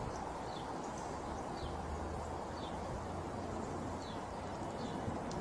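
A small bird chirping outdoors, short high falling chirps about once a second, over a steady low background rumble.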